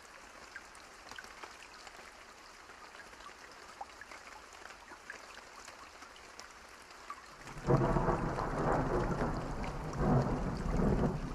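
Steady rain falling, then about three-quarters of the way through a loud rumble of thunder starts suddenly and continues over the rain, swelling again near the end.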